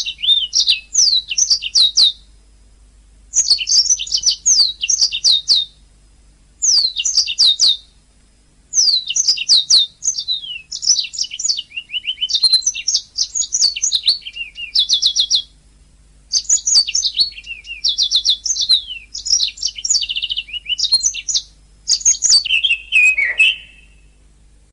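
Domestic canary singing in phrases of rapid, high-pitched trills and rolls, each a couple of seconds long with short pauses between them. A faint low hum runs underneath.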